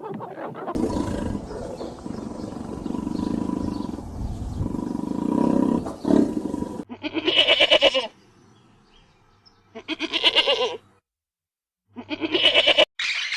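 Animal calls: a long, rough roaring sound lasting about six seconds, then three loud, rapidly pulsing calls of about a second each with short silent gaps between them.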